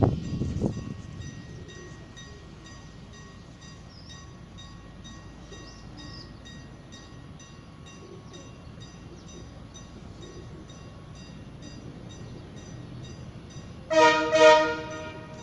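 Diesel passenger locomotive running with a steady low hum and faint regular ticking, then sounding its horn in two short blasts near the end. A brief low rumble comes at the very start.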